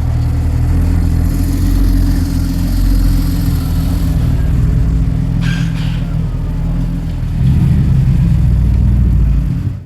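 A car engine running close by, deep and steady. It gets louder about seven and a half seconds in, then the sound cuts off suddenly just before the end.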